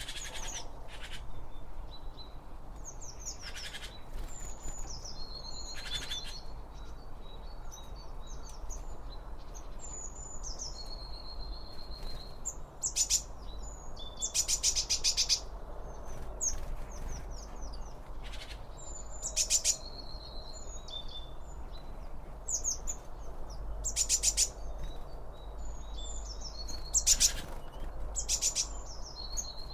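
Several small birds chirping and singing in short whistled phrases, with scattered short crackles and a steady low rumble underneath.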